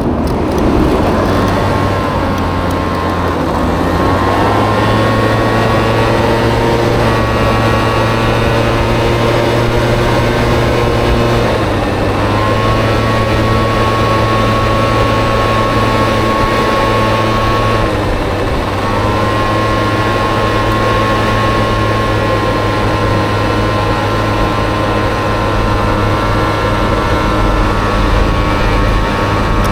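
Small Honda Dio scooter engine in a Honda Motocompo running under throttle while riding. Its pitch rises at the start, then holds steady, easing off briefly three times and picking back up each time.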